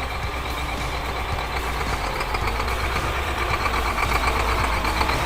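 Heavy machine's engine running steadily with a low rumble and a thin high tone over it, getting somewhat louder and harsher about four seconds in.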